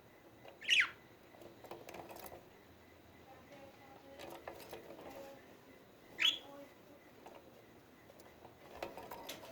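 Pet budgerigars chirping: two sharp, falling chirps about five seconds apart, with soft, faint chatter in between.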